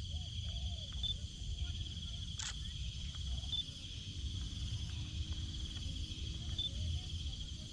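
Steady high-pitched drone of insects, cricket-like, over a low rumble of wind or handling on the microphone, with a single sharp click about two and a half seconds in.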